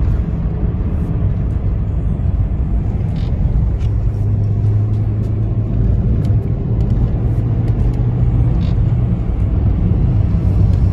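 Steady low rumble of a car's engine and tyres on the road, heard from inside the cabin while driving at a steady speed.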